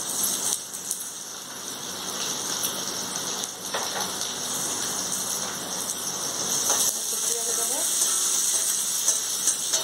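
Chopped garlic and chillies sizzling in hot mustard oil in an aluminium kadai: a steady frying hiss.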